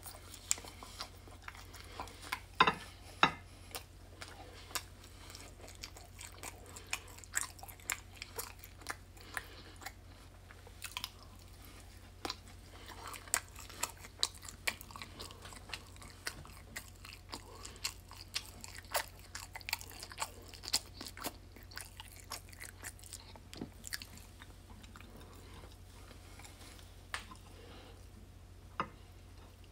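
A person chewing and biting crispy breaded chicken tenders up close, with many sharp crunchy crackles throughout. The two loudest crunches come about three seconds in.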